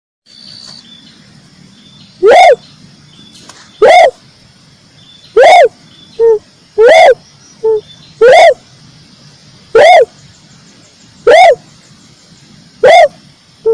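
Red turtle dove calling: loud, single arched notes repeated about every second and a half, with a few shorter, softer notes between some of them.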